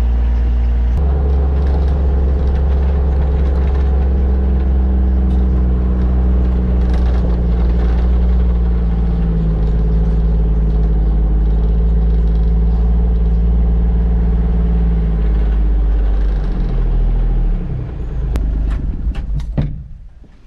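John Deere Gator XUV 855D utility vehicle's three-cylinder diesel engine running steadily under way. The engine note drops about three-quarters of the way through as it slows and stops, then a few knocks and clunks follow near the end.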